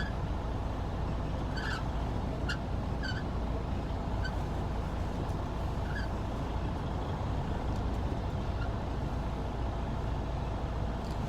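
Semi truck's diesel engine running low and steady while the tractor-trailer backs up slowly, with a few short, high chirps at uneven intervals.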